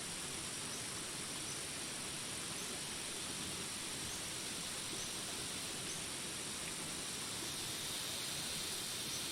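Jungle ambience: a steady hiss of rain with a continuous high insect drone, and a faint short chirp repeating roughly once a second.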